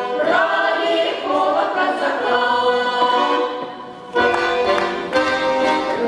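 Cossack folk ensemble's choir singing in several voices. About three and a half seconds in the singing fades, then comes back in abruptly and fuller about four seconds in.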